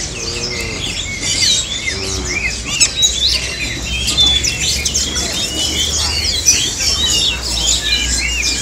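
Many caged birds chirping and whistling at once: a dense, overlapping chorus of short, quick high chirps with no pause.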